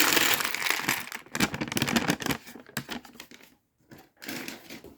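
Plastic Lego pieces rattling and clicking in a tray as they are rummaged through by hand, with plastic packaging crinkling. Busiest for the first couple of seconds, then thinning to a few scattered clicks.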